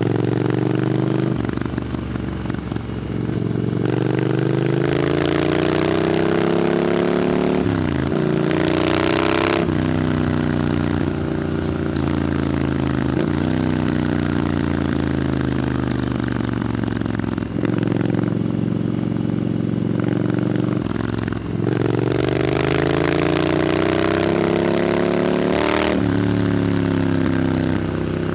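Triumph Scrambler 900's parallel-twin engine through an Arrow exhaust, under way. The engine pitch climbs, drops sharply at each gear change (about eight seconds in and again near the end), eases off through the middle, then climbs again.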